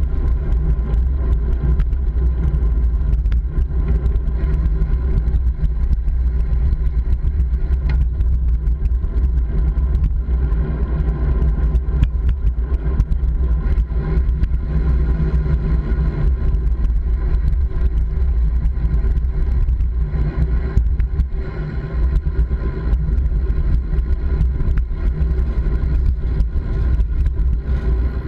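Steady, loud low rumble of wind and road noise picked up while riding, with vehicle noise mixed in.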